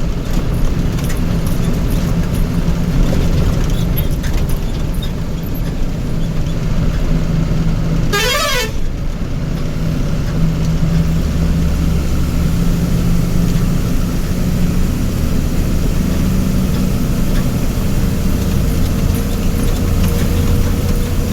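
Heavy vehicle engine running steadily in traffic, with one short warbling horn blast about eight seconds in.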